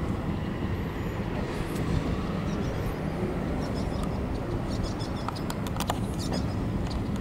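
1925 Pierce-Arrow's straight-six engine idling steadily, with a few light clicks over it in the second half.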